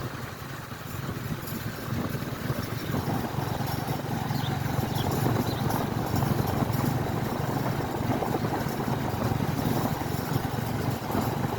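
Motorcycle engine running steadily while riding, growing a little louder about three seconds in.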